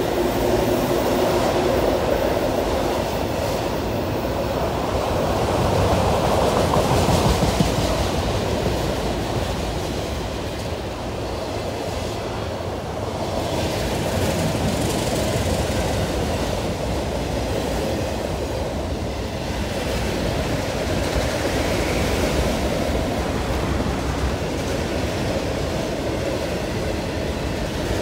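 Freight train's autorack cars rolling past on the rails: a steady rumble and rattle of wheels and car bodies.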